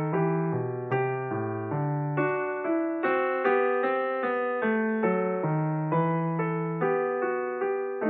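Background piano music: a gentle melody of evenly paced notes, each struck and then fading.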